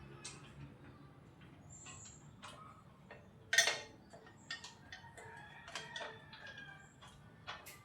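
Scattered metallic clicks and knocks from work on a motorcycle's front fork as a fork leg is drawn out, with one sharp knock about three and a half seconds in.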